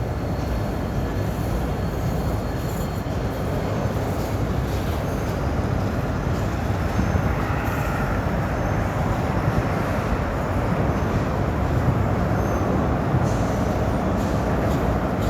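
Train cars rolling across a steel railroad drawbridge, a steady loud rumble of wheels on the rails with light clicks and faint squeals over it.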